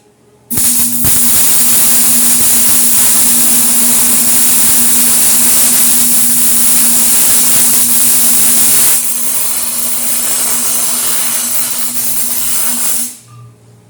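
Electric welder running a long continuous weld on 5-inch steel channel: a loud, steady sizzling hiss with a low hum underneath. It starts about half a second in, eases a little around the middle and stops shortly before the end.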